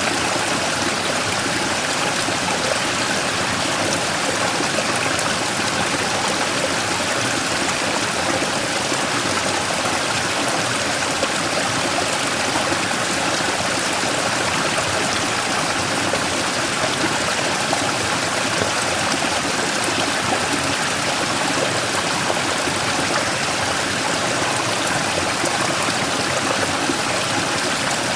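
Mountain stream flowing over and around a large rock: a steady rush of water with no change in level.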